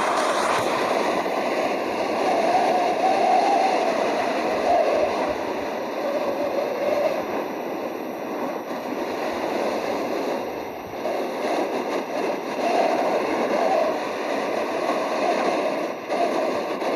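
Tornado wind roar: a loud, continuous rushing noise that swells and eases a little, without any clear tone.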